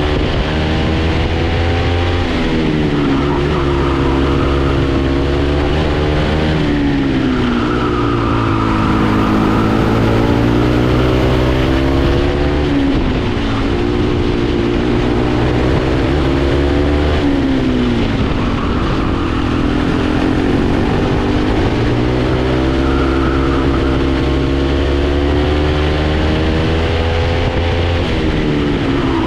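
Junior racing kart engine under full throttle on a lap, repeatedly climbing in pitch for several seconds and then dropping sharply when it comes off the throttle.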